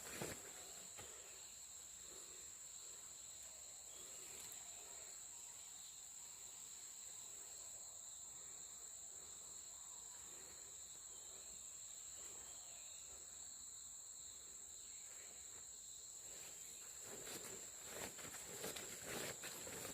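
Faint, steady high-pitched drone of insects, with a weaker second tone beneath it. Near the end, footsteps on the dirt path start up again.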